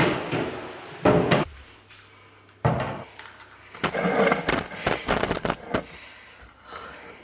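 A series of knocks and clattering bumps of household things being moved and set down, with a quick cluster of clicks and rattles partway through.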